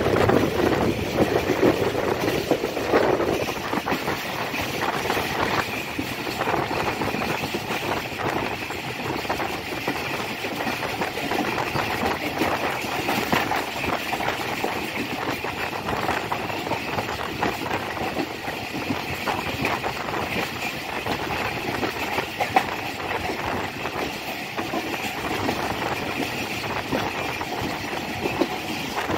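Passenger train running on the track: a steady rumble of the coaches with irregular rattling and clicks from the wheels and running gear.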